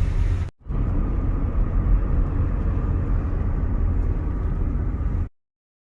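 Low, steady rumble of a car in slow traffic, heard from inside the cabin. It drops out briefly about half a second in and cuts off abruptly near the end.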